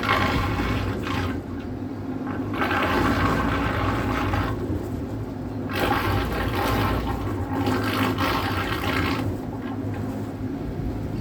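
Water rushing and splashing against a boat's hull in three surges, over a steady low rumble.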